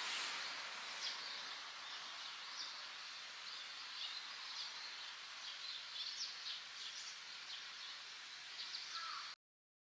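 Steady outdoor background hiss with faint, scattered high chirps throughout, which cuts off abruptly about nine seconds in.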